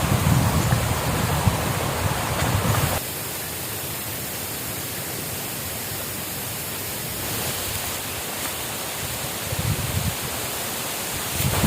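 Steady hiss of running water. Wind rumbles on the microphone for the first three seconds, then stops abruptly.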